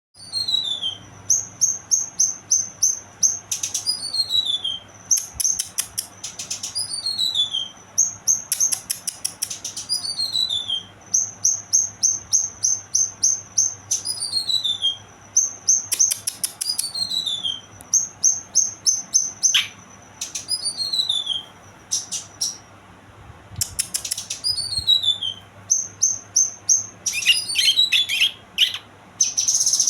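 Young kinoy songbird singing: rows of quick, high, evenly repeated notes broken by falling whistled sweeps and rapid rattling trills, phrase after phrase with short pauses.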